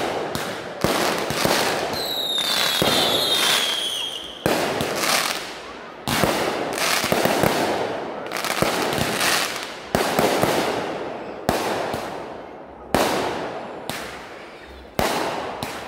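Aerial fireworks going off in quick succession: a sharp bang about every one to one and a half seconds, each fading out as it echoes. A high whistle sounds for about two seconds, starting about two seconds in.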